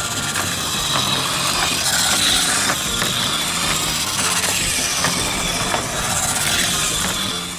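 Motor Tomica battery-powered toy car running along a plastic road track, its small electric motor whirring steadily with a wavering high whine and small clicks from the wheels.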